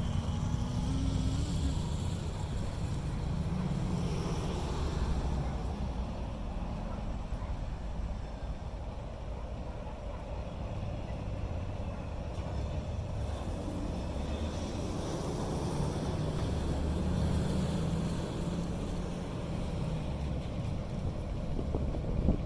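Diesel switching locomotive's engine running while it works cars: a steady low rumble, with a short rising tone in the first second or so.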